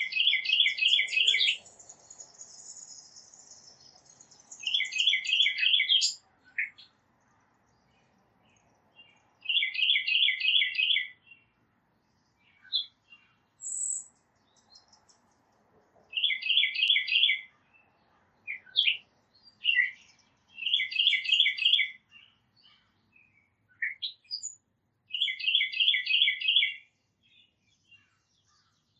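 A songbird singing the same short phrase over and over: a quick run of about eight clear, even notes lasting a second and a half, repeated about every five seconds, with scattered single chips from other small birds between phrases.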